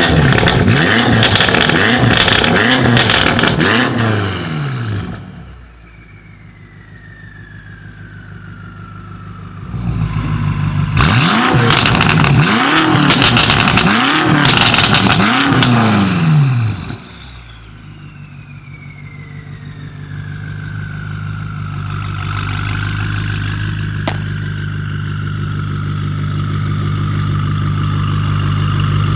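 BMW M5 F90's twin-turbo V8, decatted and running an Akrapovič exhaust, revved in two sets of about four quick blips with crackling pops, several seconds apart. It then settles into a steady idle that slowly grows louder.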